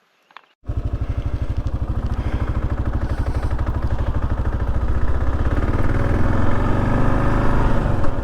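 Kawasaki KLR 650 single-cylinder motorcycle engine running with an even, rapid pulse, cutting in suddenly about half a second in and growing a little louder.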